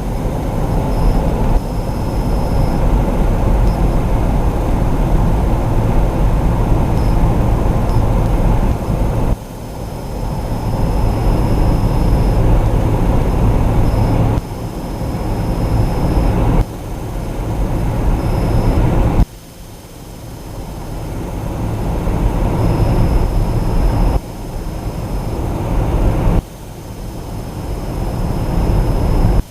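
Road and engine noise of a moving car heard from inside, a steady low rumble. It drops off abruptly several times and builds back up after each drop.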